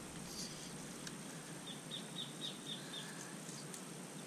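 A bird calling: a quick run of about seven short, high chirps in the middle, over faint outdoor background with a few light clicks.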